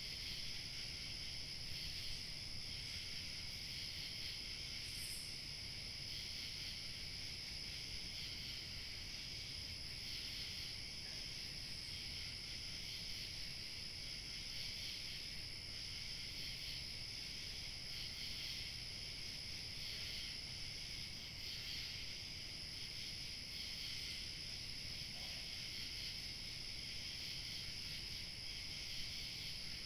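A chorus of crickets chirping continuously in several high, steady pitches over a low, steady wind rumble.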